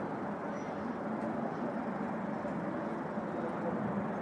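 Steady background noise, a constant even hiss and rumble with a faint hum in it.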